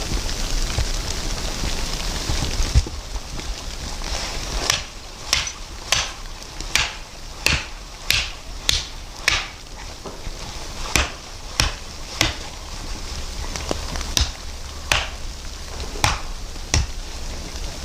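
A steady hiss, then from about four seconds in a long run of sharp knocks or strikes, roughly one to two a second, keeping an even pace.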